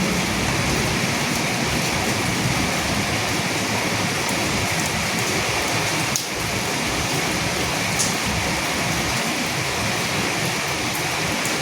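Steady rain falling, an even hiss with occasional sharper drop ticks, briefly dipping in level about six seconds in.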